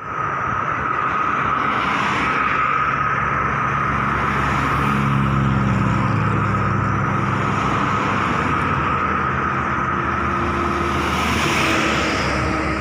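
Turbine aircraft engine running steadily at close range: a constant high whine over a low hum that grows louder in the middle.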